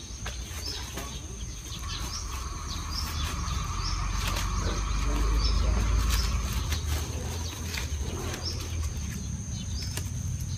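Outdoor farm ambience: a small bird chirps over and over, about once a second, over a steady high insect buzz, with scattered clicks and rustles of ginger rhizomes and plastic bags being handled. A low rumble swells to its loudest in the middle and fades again.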